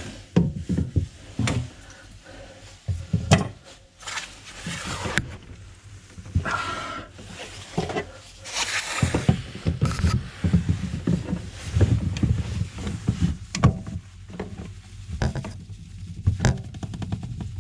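Irregular knocks, clicks and scraping from a plumber working a waste trap loose with grips.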